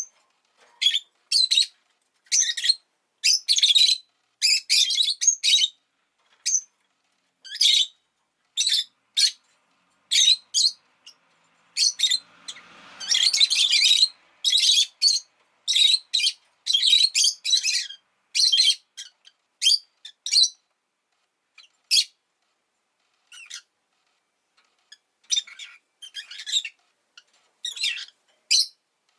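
A rosy-faced lovebird chirping: short, shrill, high-pitched calls in quick clusters separated by brief pauses, repeated throughout.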